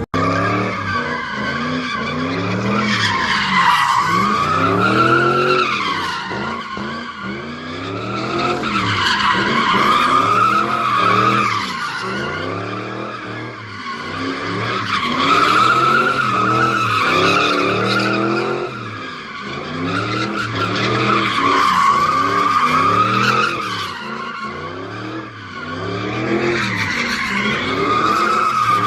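Car doing donuts: tires squealing without a break while the engine revs up and down again and again, the whole sound swelling and fading every several seconds.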